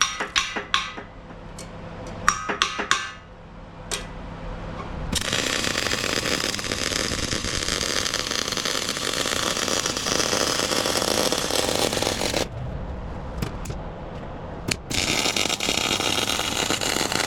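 Steel welding: a few ringing metal clanks, then a welding arc crackling steadily as a bead is laid on the grapple fork steel. The arc stops about twelve seconds in and strikes again near the end.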